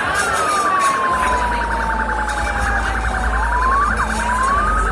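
A siren wailing: its pitch slides slowly down, then rises quickly twice near the end. A steady low rumble comes in about a second in.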